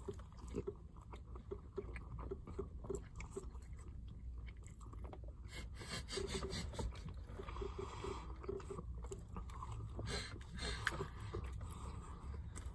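Faint chewing and mouth sounds of a person eating a breakfast burrito, many small smacks and clicks close to the microphone, played sped up.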